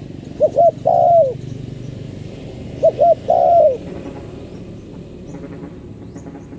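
Spotted dove cooing: two phrases about two and a half seconds apart, each of two short coos followed by a longer coo that falls in pitch.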